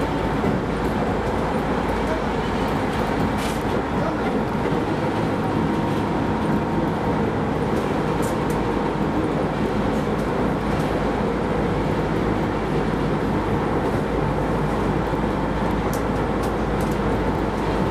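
Keisei Line electric commuter train running at speed, heard from inside the car: a steady rumble of wheels on rail and running gear, with a few faint clicks.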